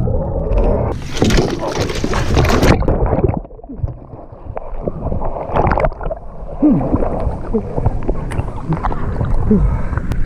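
Lake water splashing and sloshing as a person and a dog flounder beside a boat after falling overboard, loudest for the first three seconds and then easing. Short falling cries can be heard in the last few seconds.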